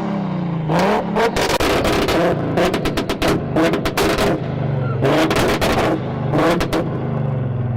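A modified car's engine revved hard over and over, with rapid popping and crackling from the exhaust, typical of a 2-step launch limiter.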